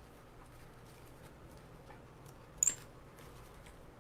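Quiet room tone with a few faint ticks and one short, sharp double click about two and a half seconds in, from wreath materials being handled and set in place.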